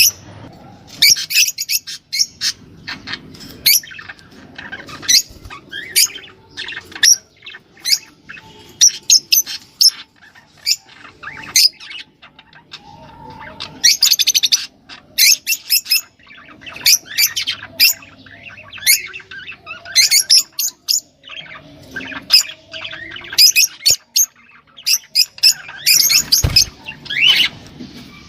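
Small birds calling in rapid, high-pitched chirps and squawks, in short bursts one after another with brief gaps.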